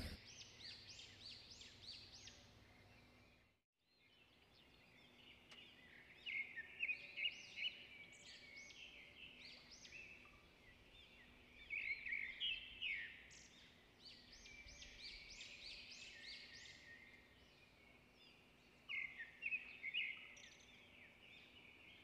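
Birds chirping outdoors: clusters of quick, high chirps about 6, 12 and 19 seconds in, over a faint steady background. The sound drops out briefly about 4 seconds in.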